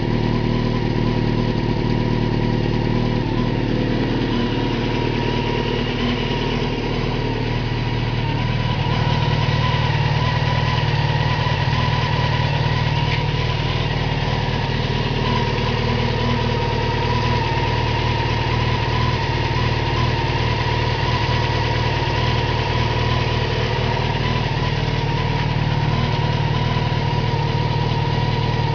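A 1997 Honda CBR900RR FireBlade's inline-four engine idling steadily at an even pitch, getting slightly louder about nine seconds in.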